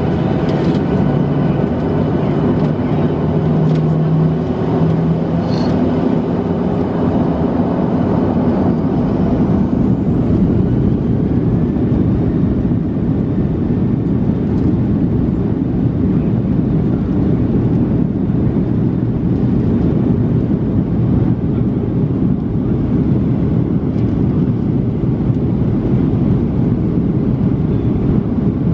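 Boeing 737-700's CFM56-7B jet engines running at high takeoff power, heard inside the passenger cabin as a steady, loud low rumble. Engine tones in the first few seconds step up in pitch, then give way to an even, rushing rumble.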